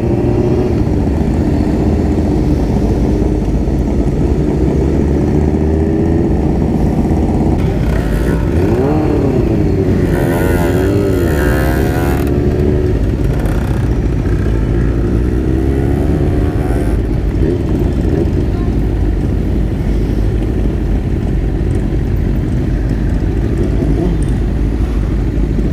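Water-cooled motorcycle engine running under way, its pitch rising and falling with the throttle.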